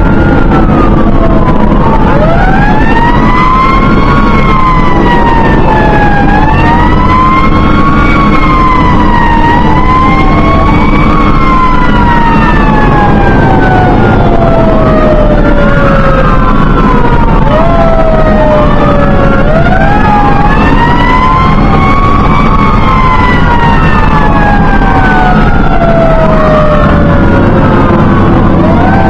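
Fire engine sirens wailing loud and continuous, two or more out of step, each rising and falling in long slow sweeps. The engine runs as a steady drone underneath.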